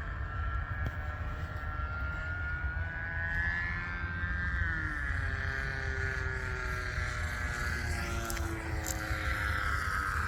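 Hot Canary RC model biplane's engine buzzing in flight, its pitch rising and falling as the plane passes and maneuvers.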